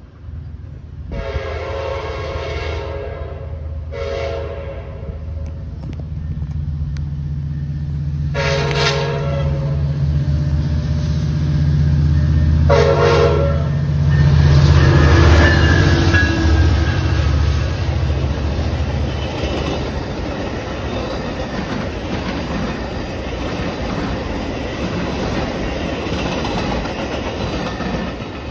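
Metra commuter train approaching and passing: a diesel locomotive's multi-note air horn sounds four blasts, the first the longest, while the engine drone grows louder to a peak as the locomotive goes by about halfway through. Then the steady rumble and clickety-clack of bilevel passenger cars rolling past on the rails.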